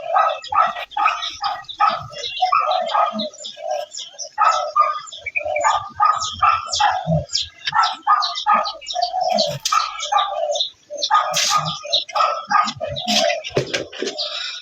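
Bird chirping in a continuous run of short calls, several a second.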